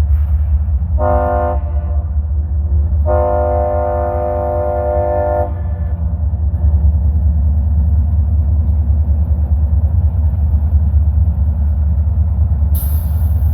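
Locomotive's five-chime K5HL air horn sounding a short blast about a second in, then a long blast of about two and a half seconds, over the steady low rumble of the diesel-electric locomotives. A sudden hiss starts near the end.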